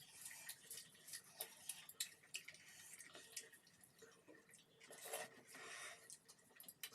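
Faint eating sounds: scattered soft clicks and wet squishes of chewing rice and chicken curry, with a brief louder swell of noise about five seconds in.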